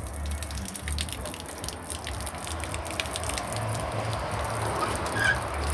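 Background music from a radio, with a steady, repeating bass beat.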